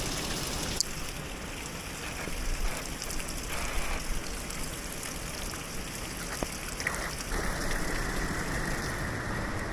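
Mountain spring water pouring and splashing in a steady rush, its sound shifting about a second in and again around seven seconds in.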